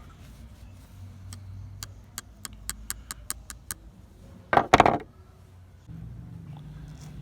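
A quick run of sharp clicks, about five a second, then a short, loud clatter about four and a half seconds in.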